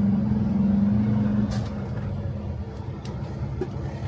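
Heavy tow truck idling with a loud steady hum. About a second and a half in the hum drops away with a short hiss of air, and a quieter low idle rumble carries on.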